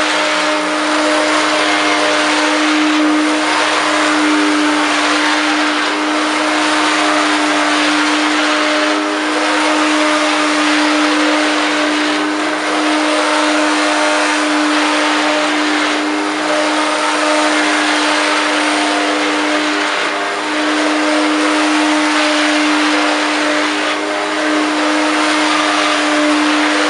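1994 Hoover Turbopower 1 U2806 upright vacuum cleaner running, loud and steady, with a strong motor whine over the rush of air. Its level dips slightly every few seconds.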